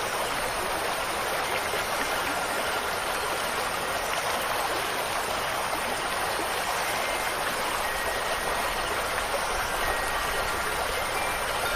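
Steady, even rush of water with no breaks. A few faint high wind-chime tones ring through it, mostly in the second half.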